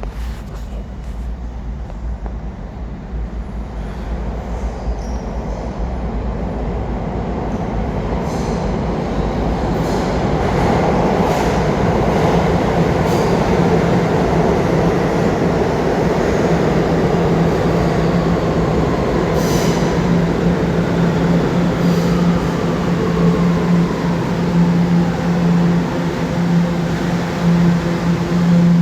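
New York City subway train on the A/C line running through the station, its rumble growing louder. About halfway through, a steady low hum builds and a whine slides down in pitch, with a few brief squeaks and clicks from the wheels.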